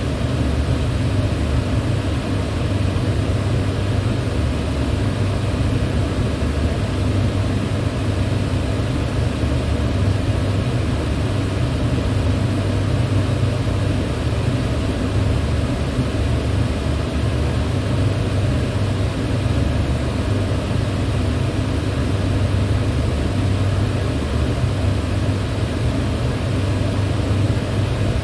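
Electric fan running steadily: an even rush of air over a low motor hum, with no change in speed.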